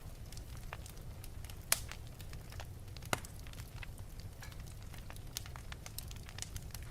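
Wood fire burning in an open fireplace, crackling with scattered sharp pops over a steady low rumble of the flames; two louder pops stand out, about a second and a half apart.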